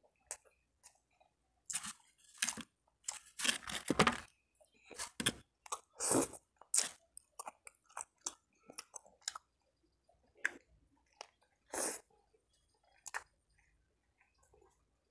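Chewing and crunching of a filled waffle, in irregular bursts, busiest in the first half and sparser after that.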